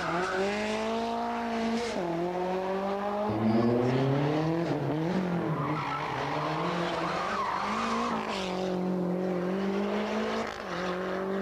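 Rally car engine revving hard under acceleration, its pitch climbing and then dropping at gear changes about three times, with tyres skidding on the tarmac.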